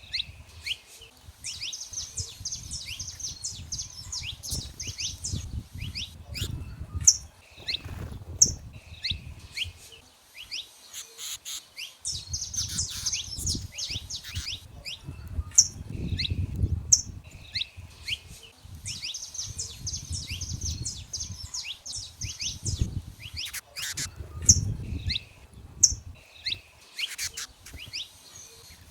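Saffron finches singing and calling: three stretches of rapid, high trilling song, each a few seconds long, with sharp single chirps scattered between them, over a low rumble.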